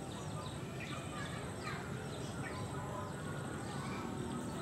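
Birds chirping: many short, falling notes from more than one bird, several a second, over a steady low background hum.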